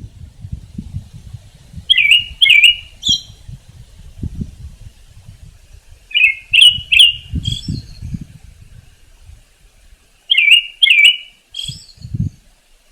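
A songbird repeating a short phrase of three or four sharp, sweeping notes, three times about four seconds apart, with faint low rumbling underneath.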